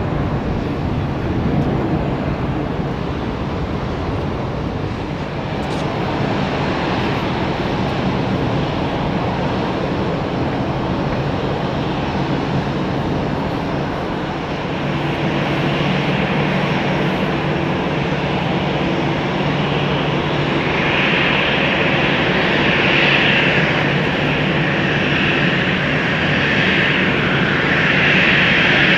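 Aircraft engines running steadily, growing louder from about halfway through and louder again, with a higher hiss, in the last third.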